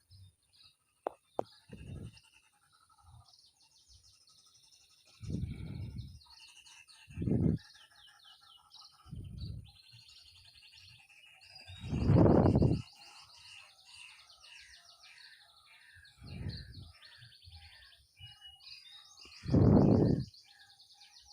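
Small birds chirping and twittering continuously. This is broken by about seven short, low, noisy bumps of handling or wind on the microphone, the loudest about twelve and twenty seconds in, and two sharp clicks about a second in.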